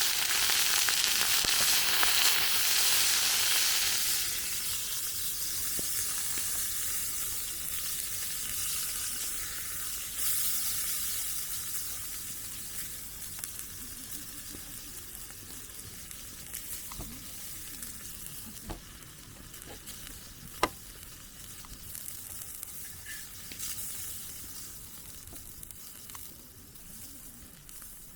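Chicken frying in a pan over a campfire, sizzling loudly for the first few seconds and then settling to a quieter steady sizzle. A sharp click about twenty seconds in.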